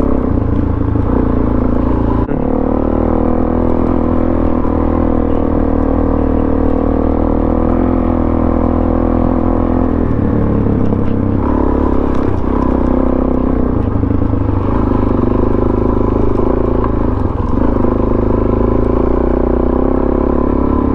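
Suzuki DRZ400SM's single-cylinder four-stroke engine with a Yoshimura exhaust running under way, its pitch shifting several times as the throttle and gears change.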